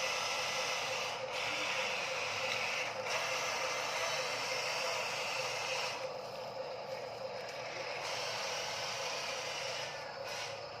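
Huina RC dump truck's small electric motor and plastic gearbox whirring steadily, easing for a couple of seconds past the middle.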